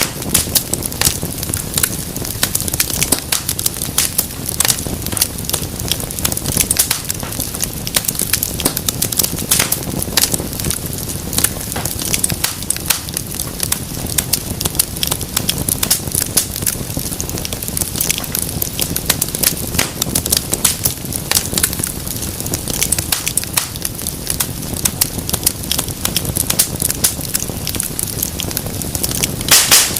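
Wood fire in a fireplace crackling steadily, with a constant low rumble of flames and dense sharp pops and snaps, a burst of louder pops near the end.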